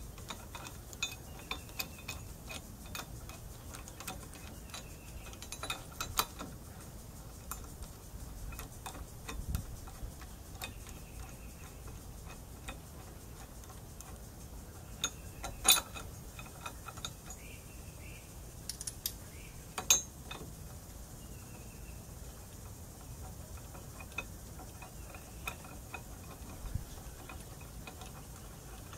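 Scattered clicks and taps of hand tools on metal during teardown work, irregular, with a few sharper knocks, the loudest about halfway through.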